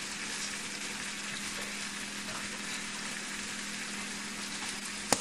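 Zucchini and mango strips sizzling steadily in a frying pan, with a steady hum underneath. Two short clicks come near the end.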